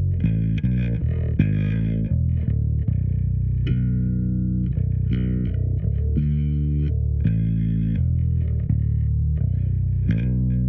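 Yamaha BB3000 electric bass guitar played through a Darkglass Anagram effects unit: a continuous run of plucked notes, changing every fraction of a second to about a second.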